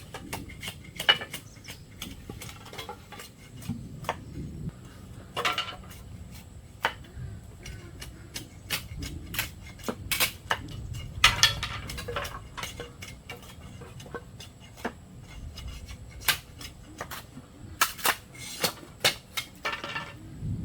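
Irregular knocks and clacks of bamboo pieces being handled and tapped into place, a few of them ringing briefly.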